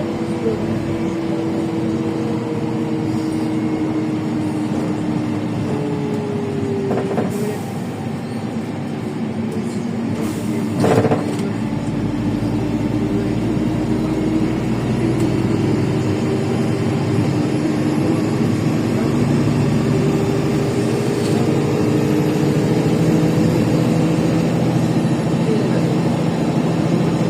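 Inside a LiAZ 5292 city bus under way: its Yuchai diesel engine and drivetrain run steadily, their tones shifting in pitch as the bus changes speed. There is one sharp knock about eleven seconds in.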